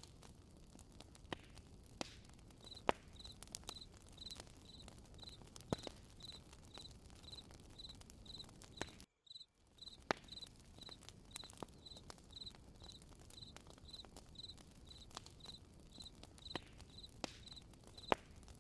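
Campfire crackling softly with scattered sharp pops, and a cricket chirping steadily at a high pitch about twice a second from about three seconds in. The sound drops out completely for a moment about halfway through.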